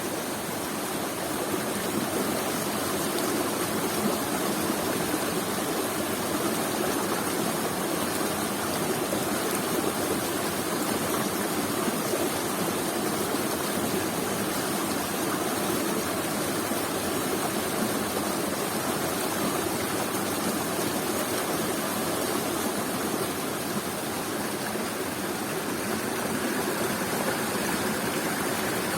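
Waterfall: water falling and rushing in a steady, even roar of noise with no breaks.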